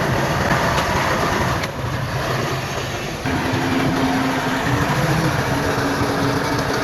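Heavy diesel earthmoving machinery running steadily: a bulldozer and dump trucks working. About three seconds in the sound shifts and a steady hum comes in.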